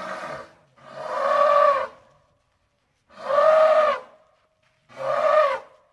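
Elephant trumpeting: a call ends just at the start, then three more follow, each about a second long, rising then falling in pitch, with short gaps between them.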